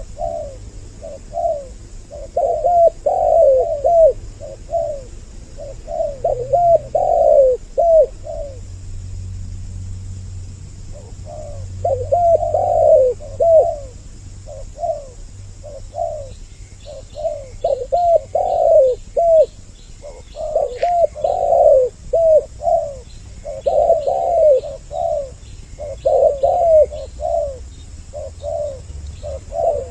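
Two spotted doves cooing, repeated phrases of several coos, with a pause of about three seconds about a third of the way through. Faint quick high ticks run under the cooing in the second half.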